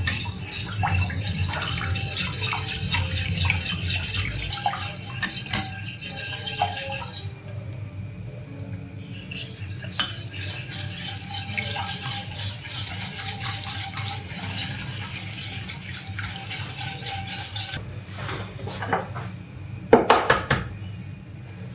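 Kitchen utensils and dishes clattering: metal cutlery knocking and scraping against pots and bowls in irregular clinks, over a steady low hum, with a louder clatter near the end.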